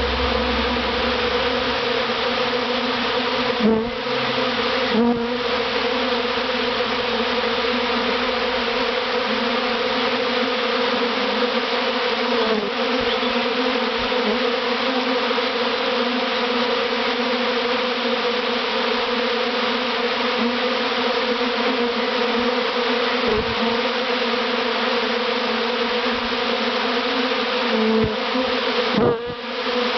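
Dense, steady buzzing of a large honeybee swarm at close range, the wingbeats of thousands of bees blending into one hum, as the swarm moves into its new hive box. The hum dips briefly a few times.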